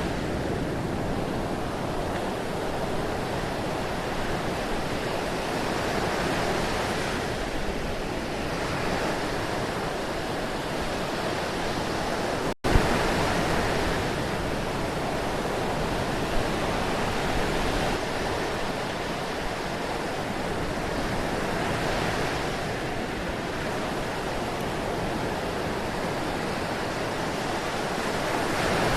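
Ocean surf washing in, a steady wash that swells and ebbs every several seconds. About halfway through, the sound cuts out for an instant and comes straight back.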